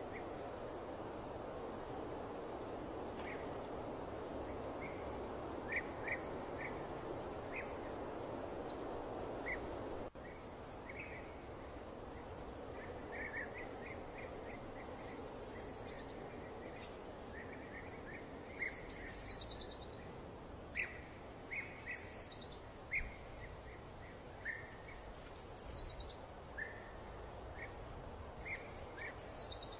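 Birds chirping and calling over a steady background hiss. About ten seconds in, the hiss drops abruptly, and from then on the chirps, including quick downward-sweeping high notes, come more often.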